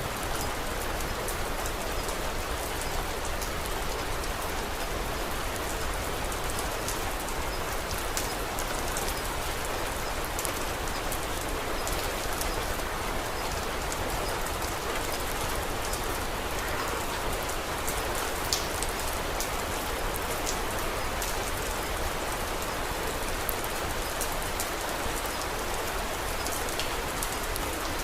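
Steady rain falling on a surface, with scattered small sharp drop ticks and one slightly louder tick about two-thirds of the way through.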